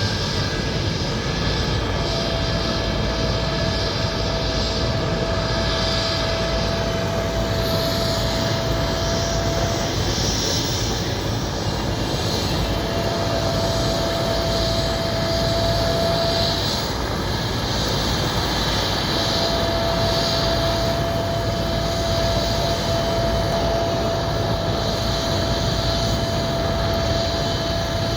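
Helicopter running steadily through its take-off, the engine and rotor noise holding even throughout. A steady single tone rises above it three times, lasting several seconds each time.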